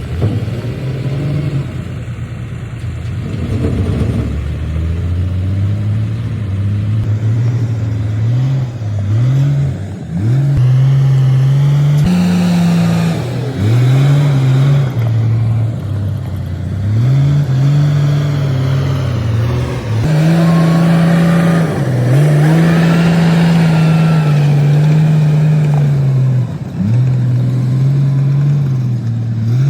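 Komatsu D58P bulldozer's diesel engine working under load, its pitch rising and holding, then dipping sharply and climbing back every few seconds.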